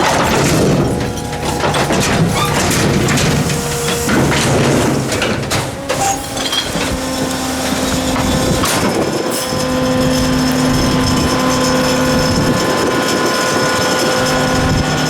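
Garbage truck at work: diesel engine running with a steady hydraulic pump whine that changes pitch about halfway through, over scattered knocks and clattering of metal and trash.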